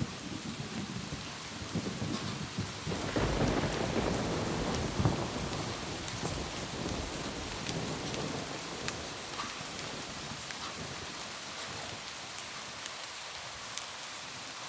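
Steady rain on a roof with scattered sharp drips, and a low roll of thunder that swells about three seconds in and fades away over the next few seconds.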